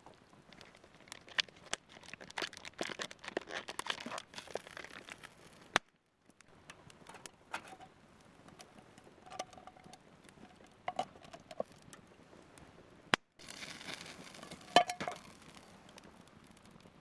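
Rustling and crinkling with many scattered clicks and knocks, dense at first, sparser in the middle and busier again near the end, broken twice by brief dropouts.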